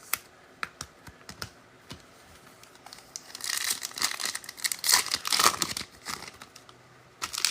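Foil trading-card pack being torn and crinkled open, with scattered small clicks and taps of cards being handled before and after.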